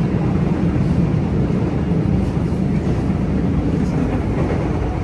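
Interior running noise of a JR West 323 series electric train: a steady rumble of wheels on rail and car body as it travels between stations.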